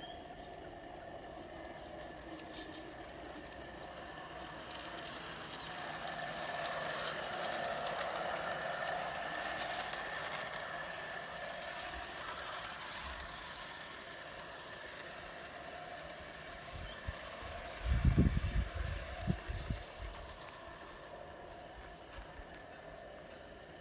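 Wilesco Lucas live-steam model locomotive running along its track with a steady mechanical rattle, growing louder as it draws near through the first half and then fading. A cluster of short, loud low thumps about three quarters of the way through is the loudest sound.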